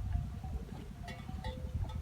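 Low wind rumble on the microphone, with faint, scattered bell-like tinkling tones.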